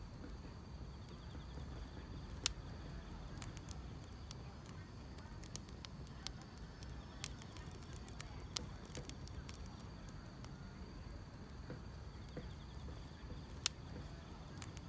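Wood fire crackling, with irregular sharp pops, the loudest about two and a half seconds in and near the end, over a low steady rumble, with faint insects chirring steadily.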